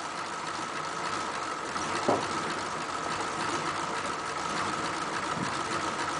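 1941 Ford pickup's flathead V8 idling steadily just after a warm restart, with one brief knock about two seconds in. It is running cleanly now that the carburettor has stopped flooding.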